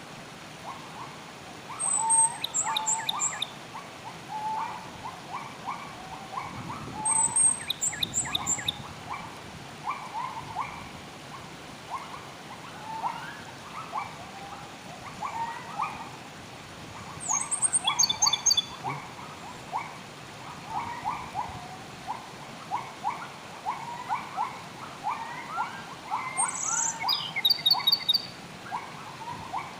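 Wild birds calling: a steady chatter of short calls, with a louder, high, quick song phrase four times, about every ten seconds.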